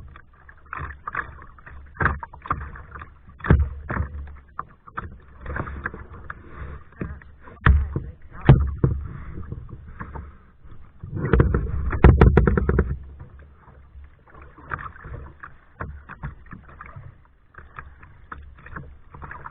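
Kayak paddling: irregular paddle splashes and knocks against the kayak. About eleven seconds in comes a louder burst of rapid splashing and knocking that lasts a couple of seconds.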